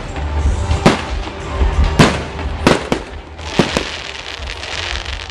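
Aerial fireworks shells bursting: a string of sharp bangs, roughly one a second and sometimes two in quick succession, with a stretch of crackling from the bursts in the middle, over steady background music.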